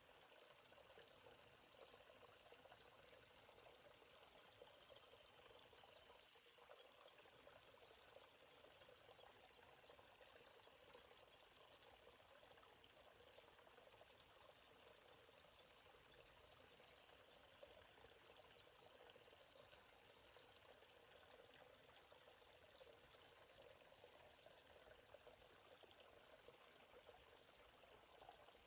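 A steady, high-pitched chorus of insects, with a faint babbling stream beneath it.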